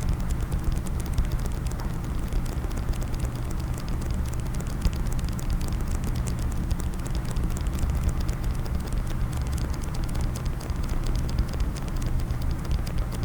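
Rapid fingernail tapping on a hard case for ASMR: a dense, continuous patter of small clicks with a heavy low thud under them.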